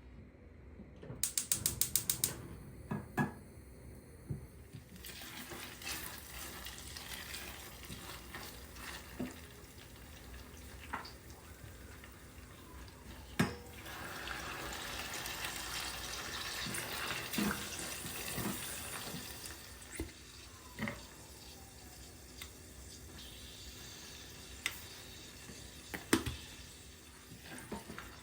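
A rapid run of about ten clicks a second or so in, then a tap running into a kitchen sink, with dishes knocking and clinking now and then as things are washed.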